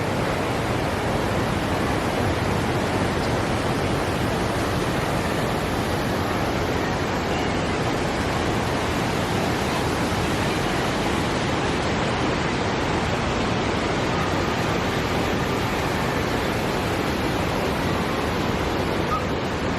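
Waterfall's steady rushing noise heard up close, an even, unbroken roar of falling water.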